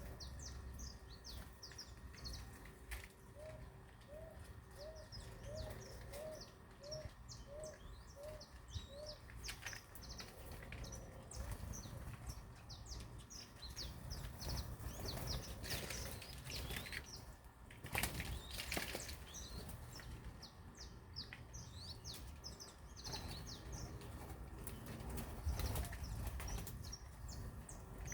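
A group of small birds chirping continuously in short high notes, with bursts of wings flapping. From about four to nine seconds in, a lower rising call repeats about twice a second.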